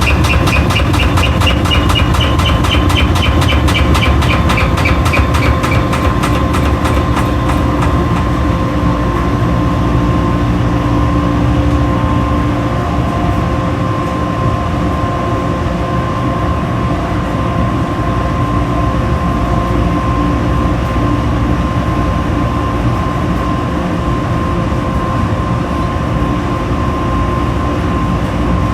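Washing machine running, probably in a spin: a loud, steady mechanical rumble with a steady hum. For the first several seconds a rapid ticking pulse and a high whine that creeps up in pitch ride on top, then fade, leaving the even rumble.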